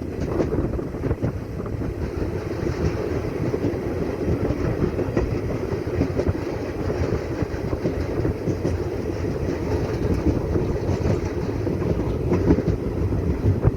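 Indian Railways passenger train running along the track: a loud, steady rumble with a dense, irregular clatter from the wheels and carriages.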